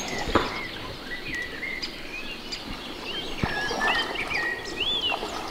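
Small birds chirping and singing in quick, varied, gliding calls over a faint even background hiss, with a couple of soft knocks, one near the start and one about three and a half seconds in.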